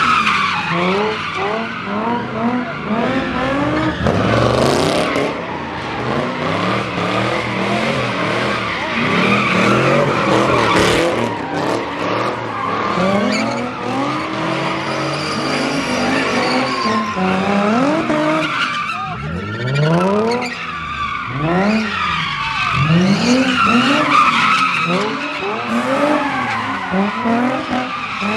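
Car engines revving up and down over and over, with tyres squealing and skidding as the cars do donuts and burnouts.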